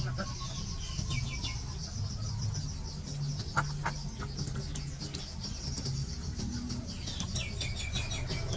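Birds chirping in quick runs of short notes, once about a second in and again near the end, over a steady high-pitched buzz and a low hum.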